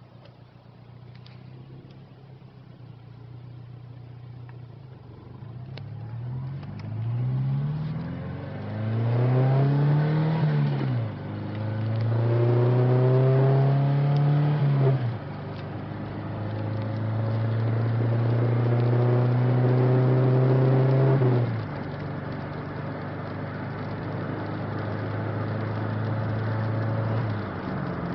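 Ford Fiesta engine and exhaust accelerating through the gears: the note rises in a series of pitch sweeps, each cut off by a shift and each lasting longer than the one before, then runs at steadier revs. The sound grows from faint to loud as it builds.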